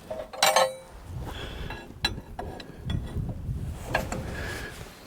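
Hand tools and metal fittings handled and clinking against each other, with a loud metallic clink about half a second in and sharper knocks near two and four seconds, over a low rumble of handling.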